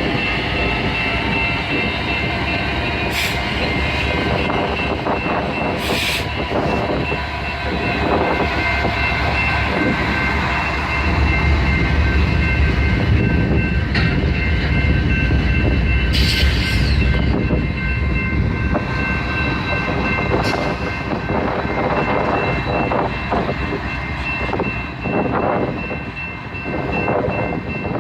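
Diesel freight locomotives running, a steady heavy drone with several high whining tones over it, growing louder for a while in the middle. A few sharp metallic clanks stand out.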